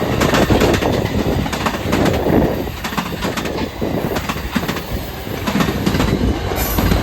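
Amtrak San Joaquin passenger train cars rolling past close by: a loud, steady rumble with irregular clicking and clattering of the wheels over the rails.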